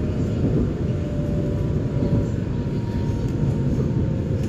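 Electric commuter train running, a steady low rumble heard from inside the carriage, with a faint whine that slowly slides lower in pitch.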